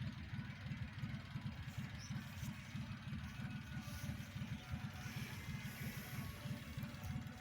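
Tractor engine running steadily as a low, fast-pulsing rumble while it pulls a gang mower.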